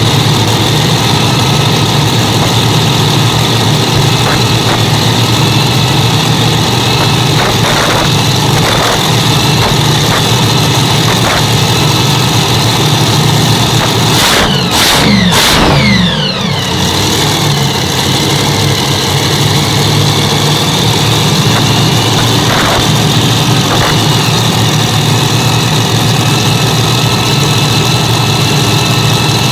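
Hemi V8 engines of the Fournohemi pulling tractor being test-run, running loud and steady near idle, with one quick rev up and back down about halfway through.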